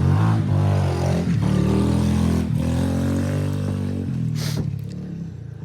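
Dirt bike engine running, its pitch rising and falling with the throttle, then fading to a lower steady drone near the end.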